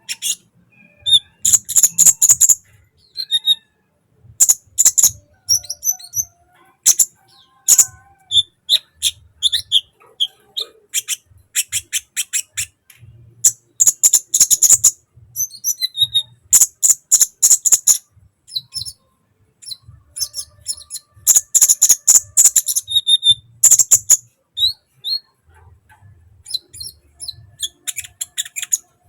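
Sunbird singing a chattering song: bursts of very high, rapid clicking and twittering notes, each lasting one to two seconds, with short pauses between them.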